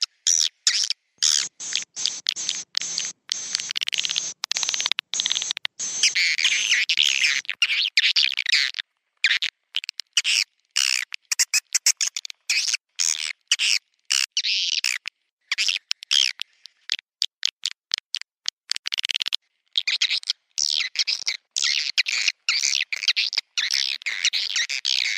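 Swiftlets twittering: a dense, rapid chatter of high chirps and clicks broken by many short gaps. It is a swiftlet-house lure recording of the roosting ('inap') call, played to make swiftlets settle and nest in the building.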